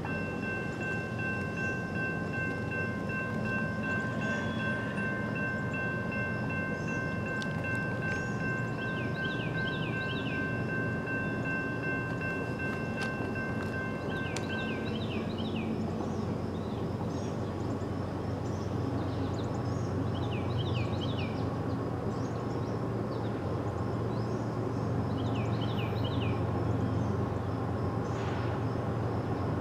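Horn of an approaching diesel freight train held as one long chord, stopping about 15 seconds in. After it, the low rumble of the GE diesel locomotives grows as the train draws near. A bird sings short trilled phrases every few seconds.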